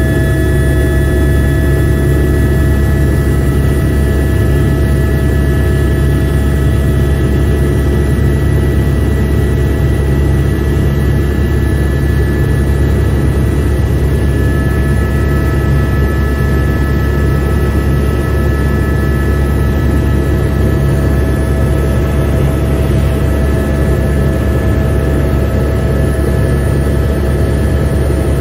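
Helicopter cabin noise: a steady, loud drone from the rotor and turbine engine, with several constant whining tones above it, heard from inside the cabin.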